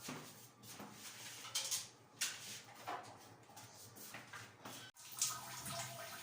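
Scattered light knocks, clicks and rustles of cleaning things being handled, with an abrupt break about five seconds in.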